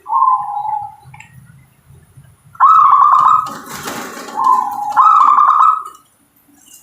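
Zebra dove (perkutut) singing its cooing song: a coo at the start, then two rapid trilled coo phrases about two seconds apart with a lower coo between them. A short rustling noise comes in the middle.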